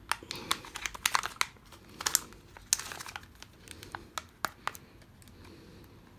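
Kinder Joy egg's wrapper and plastic capsule handled by hand: crinkling with many small sharp clicks, dying down over the last second.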